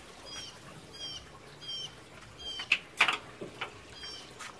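A bird sings a short two-note chirp over and over, about every two-thirds of a second. About three seconds in come a couple of sharp metal clanks, the loudest sounds, from the smoker's hanging rack and meat hooks being handled.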